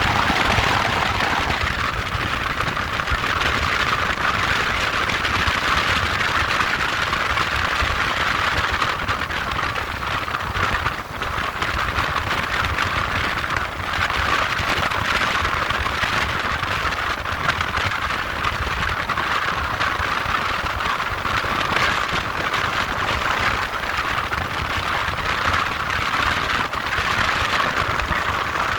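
Moped on the move: a steady rushing noise with a low, fluttering rumble underneath and no clear engine note standing out.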